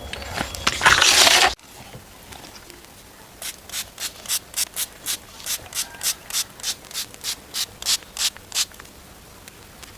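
Dried clay being scraped off a toy truck: a dense stretch of scraping that cuts off suddenly about one and a half seconds in, then, after a pause, a run of short, evenly spaced scraping strokes, about three a second.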